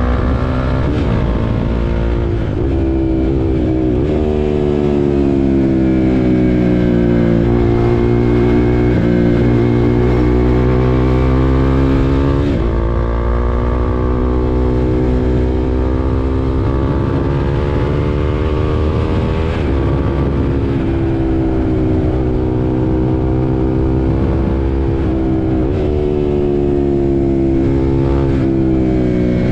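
KTM RC 390's single-cylinder engine under way, its pitch climbing and falling as the bike accelerates and slows, with sudden pitch changes every few seconds at the gear changes.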